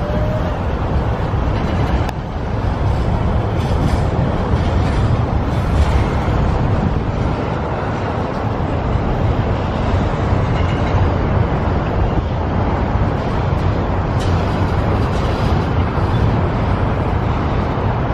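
Double-stack intermodal container train rolling past, its well cars' wheels on the rails making a steady, continuous rolling noise with a few faint clicks.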